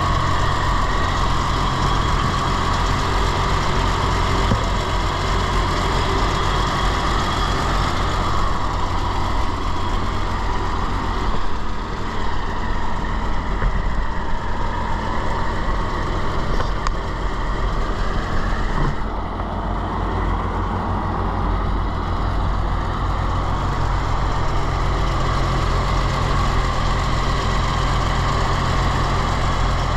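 1939 Dodge Brothers TE-32 1.5-ton truck's flathead six-cylinder engine idling steadily, a little softer for a few seconds in the middle.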